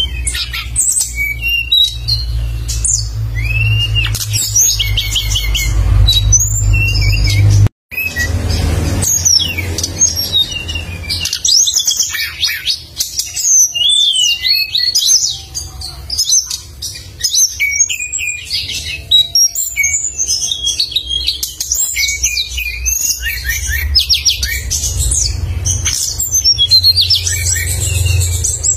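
Songbird singing actively in rapid, sharp chirping and trilling phrases, almost without pause, over a low rumble. The sound cuts out for a moment about eight seconds in.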